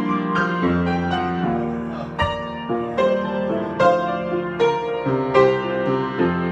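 Solo piano improvisation: chords held under a slow melody, with new notes struck about twice a second and left ringing into one another.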